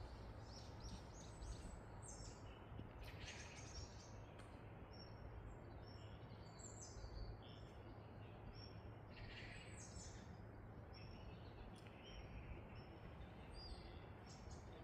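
Faint birdsong: several short chirps and trills, repeated throughout, over a low steady background hum.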